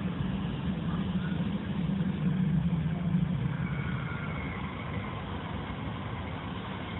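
Shinkansen train passing on an elevated viaduct, heard through a window as a steady low rumble that is loudest about two to three seconds in and then fades as the train goes by.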